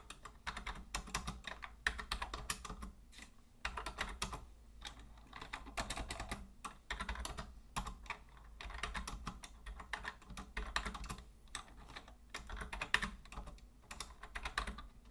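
Typing on a vintage Logitech Deluxe 104 wired keyboard: rapid runs of key clicks, broken by short pauses.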